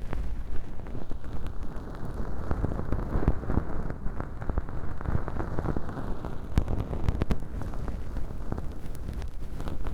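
Feather-tipped bonten ear pick brushing and scraping inside ear-model canals stuffed with fluffy velcro material and dry imitation earwax, a continuous scratchy rustle full of small crackles.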